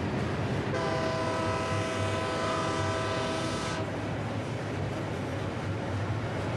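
Freight locomotive air horn sounding one steady blast about three seconds long, over a steady low rumble from the train.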